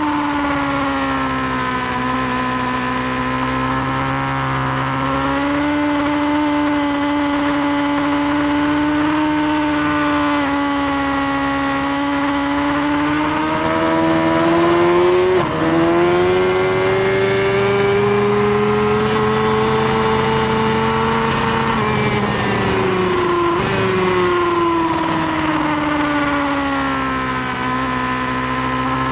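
Suzuki GSX-R1000R's inline-four engine running hard under a rider on track, its pitch swelling and sinking with the throttle. It breaks with a sudden jump in pitch about halfway through and again some eight seconds later.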